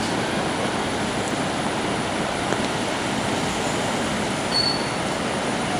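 Monsoon waterfall in full flood, a steady loud roar of falling water. A short high note sounds briefly about four and a half seconds in.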